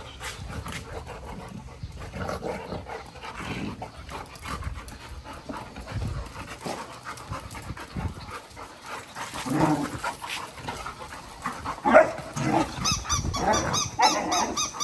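Golden retriever panting during play, with short, louder vocal noises from the dog in the last few seconds.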